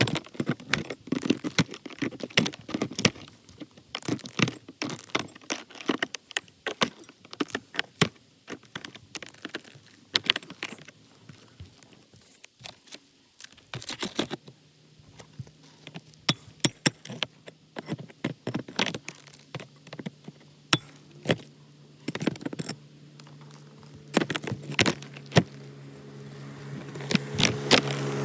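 Irregular clinking, tapping and knocking of hand work on a roof. About halfway through, a steady low hum comes in and grows louder toward the end.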